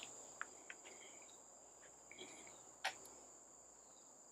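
Faint, steady, high-pitched drone of insects in forest undergrowth, with a few faint clicks and brief chirps.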